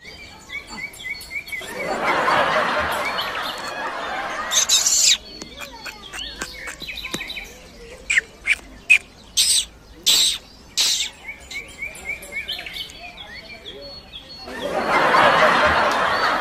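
Small birds chirping in short repeated notes. Two stretches of loud rushing noise and a run of sharp cracks around the middle are louder than the birds.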